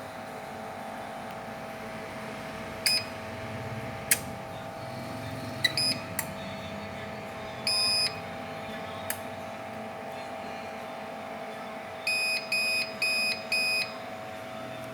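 APC UPS beeping over a steady electrical hum: short single beeps, a longer beep about halfway, then four quick beeps near the end, with a few sharp clicks in between.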